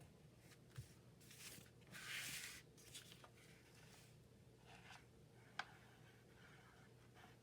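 Faint handling of paper at a desk: a short rustle about two seconds in and a few small clicks and taps, the sharpest a little past the middle.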